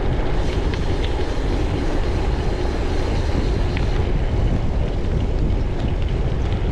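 Wind rushing over a chest-mounted camera's microphone while riding a gravel bike, with the tyres rolling over gravel underneath: a steady, loud rumble with a few faint ticks.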